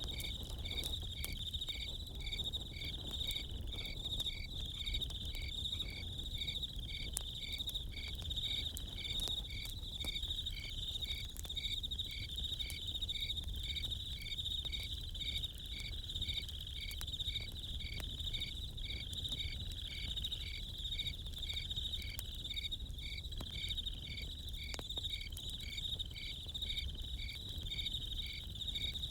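Crickets chirping steadily in a chorus, one pulsing at about two chirps a second, over a campfire's low rumble and scattered sharp crackles.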